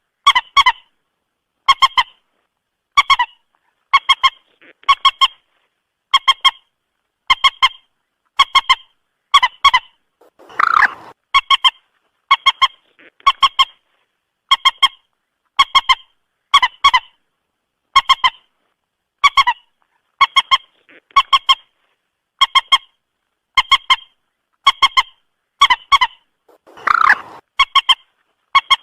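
Moorhen calling over and over, a short clucking call of two or three sharp notes about once every second and a quarter. Twice, about ten seconds in and near the end, a longer, harsher call.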